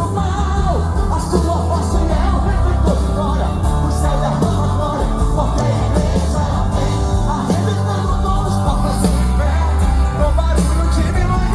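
A live band plays a loud, upbeat Christian rock song, with voices singing and shouting over it.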